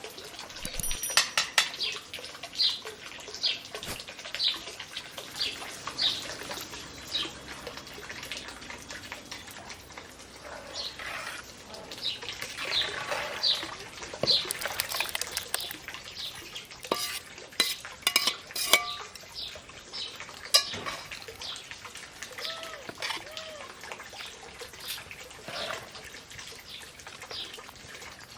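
Metal utensils and dishes clinking and scraping against pots while cooking, with short, high bird chirps repeating about twice a second in the first several seconds.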